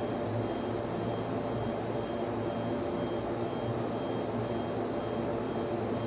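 Steady hum and whir of server-room equipment, the cooling fans of servers and network switches running, with a faint high tone that pulses on and off.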